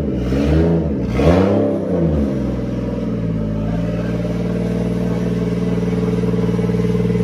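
Car engine revved briefly twice, its pitch rising and falling each time, then settling about two seconds in to a steady idle.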